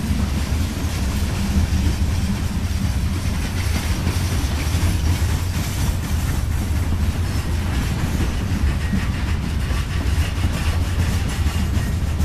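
Freight train of covered hoppers and tank cars rolling past: a steady rumble of steel wheels on the rails, with light repeated clicks that come more often in the last few seconds.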